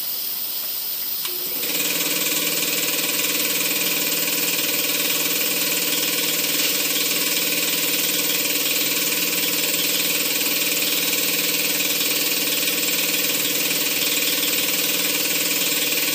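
Faint hiss, then about two seconds in a clothes dryer starts and runs steadily, its blower whirring with a rush of air pushed out through the freshly cleaned vent.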